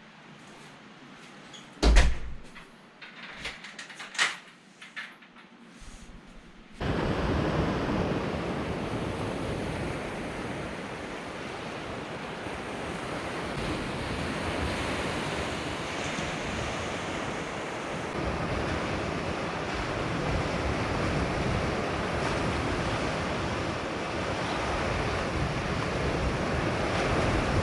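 A few knocks and clicks, the first one sharp and loud, then about seven seconds in a steady rush of sea surf and wind starts abruptly and carries on.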